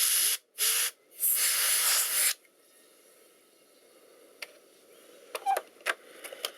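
Canned compressed air blasting into a laptop's cooling vents in three bursts of hiss: two short ones, then one about a second long. A few light clicks follow near the end.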